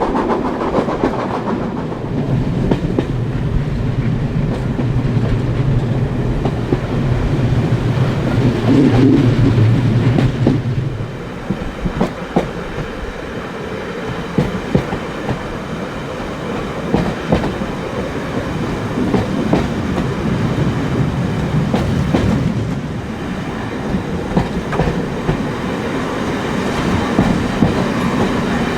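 Steam-hauled heritage train running on the line, wheels clicking over the rail joints with a continuous rumble. A steady low drone in the first part stops about eleven seconds in, leaving the clicking and rumble.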